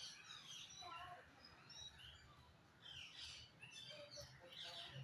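Faint bird chirps and short whistles, several a second, with a brief lull midway.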